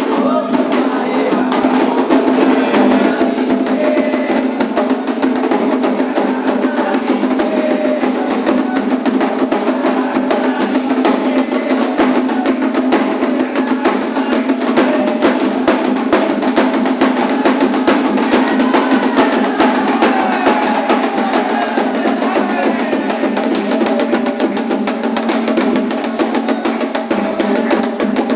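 Candomblé ritual music: dense, fast hand drumming on atabaque drums with group singing of orixá songs over it, and a steady low hum underneath.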